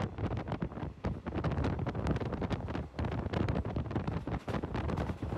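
Passenger train running, heard from on board: a steady rumble of wheels on the track with frequent irregular knocks and rattles, and wind buffeting the microphone.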